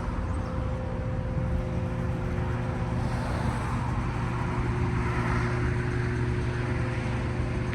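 A motor vehicle's engine idling steadily: a constant low hum with a few held tones over outdoor noise.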